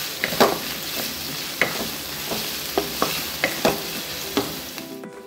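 Chopped onion, garlic and green chillies sizzling in hot oil in a kadhai, with a steady hiss, while a wooden spatula stirs them, scraping and knocking against the pan every second or so.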